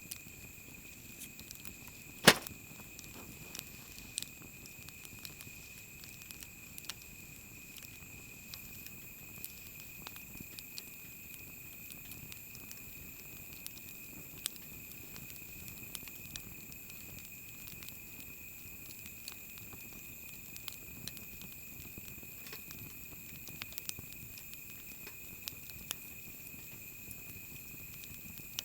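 Wood fire crackling, with scattered small pops and one sharp, loud pop a little over two seconds in, over a steady high-pitched drone.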